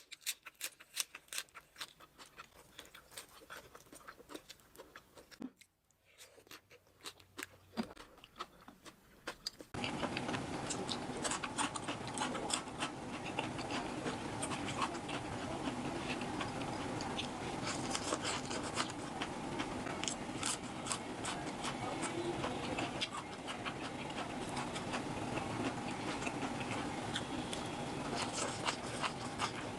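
Close-miked eating: scattered crisp chewing and crunching clicks, then after an abrupt cut about ten seconds in, a louder stretch of dense wet clicking and smacking over a steady hiss.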